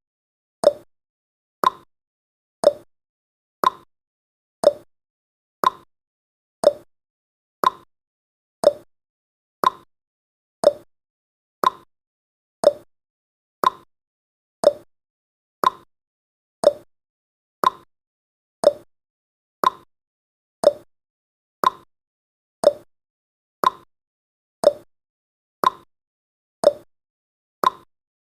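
Clock-tick sound effect of a countdown timer: one sharp tick every second, alternating between a higher and a lower tick in a tick-tock pattern.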